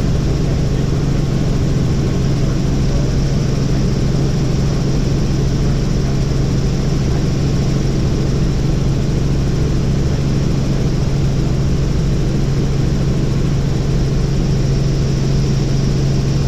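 Helicopter in flight: a loud, steady drone of rotor and engine with a strong low hum that holds constant throughout.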